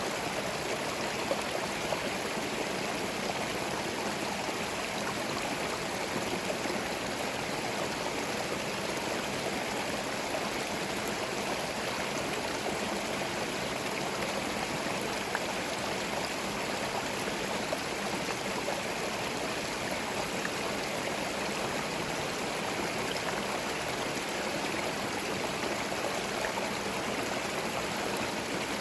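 Small forest stream running steadily over stones, with an even splash and gurgle of flowing water.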